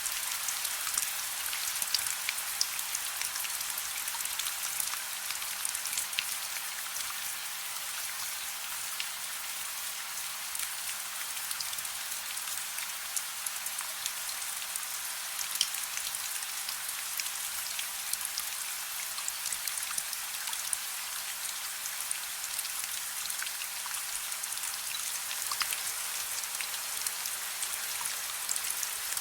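Steady gentle rain: an even hiss with many small drop ticks and little low rumble.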